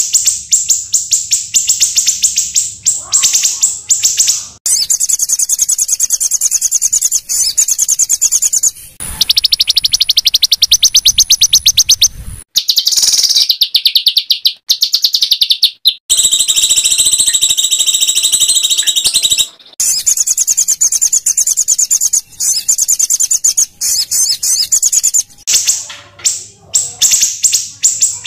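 White-rumped shama (murai batu) singing harsh, rapid-fire bursts of high-pitched notes, long runs of fast repeated chips and trills broken by a few short pauses.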